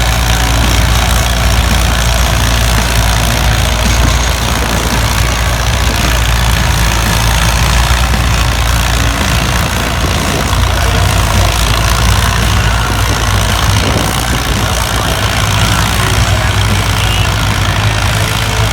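Antique farm tractor engine running loudly and steadily, with a deep, even hum.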